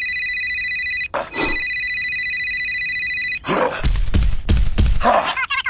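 A steady, high electronic ringing tone like a buzzer or ringer, broken by a short noisy burst about a second in, cuts off after about three seconds. It is followed by a quick run of knocks and thuds.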